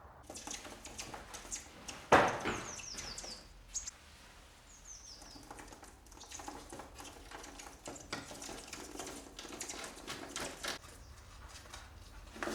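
Two short runs of high, quick, descending cheeps from a fledgling blue tit, about three and five seconds in, over steady rustling and small knocks of handling among twigs and leaves, with one loud knock about two seconds in.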